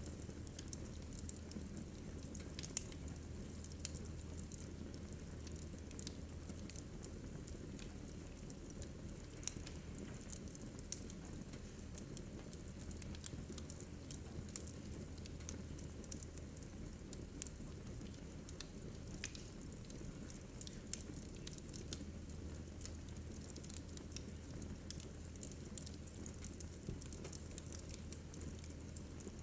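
Wood fire crackling in a fireplace: frequent small snaps and pops, a few louder than the rest, over a low steady hum.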